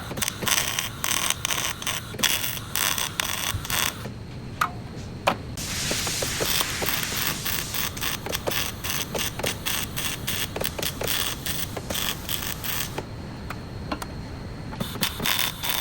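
Rapid, irregular mechanical clicking from hand-tool work on a car body, with a short hiss about six seconds in.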